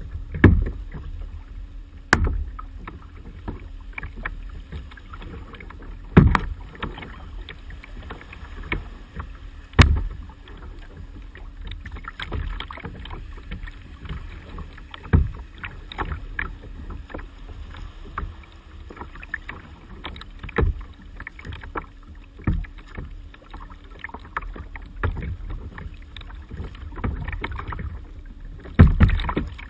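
Kayak paddling: a paddle dipping and splashing in the water, with irregular sharp knocks every few seconds over a low steady rumble.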